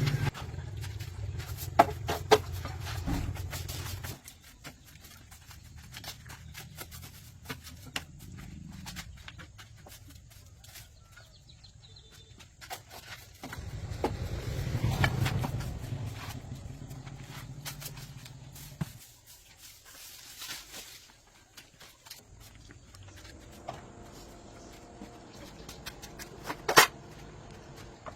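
A low engine hum stops abruptly about four seconds in. It swells and fades again around the middle. Scattered clicks and knocks run throughout, the loudest near the end.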